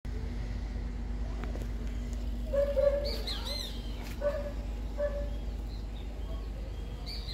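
Birds calling: a cluster of short chirps and whistled notes from about two and a half seconds in, with one more chirp near the end, over a steady low hum.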